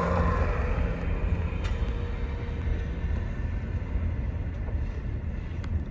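An engine running steadily: a low rumble with a faint steady hum, most likely from construction machinery at the building site.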